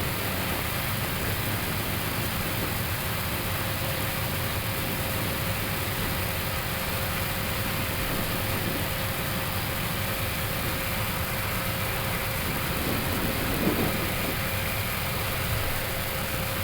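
Steady cockpit noise of an Airbus A321neo waiting on the ground with its engines idling: an even hiss of air-conditioning and avionics airflow over a low rumble, with a faint steady hum. A small brief bump about fourteen seconds in.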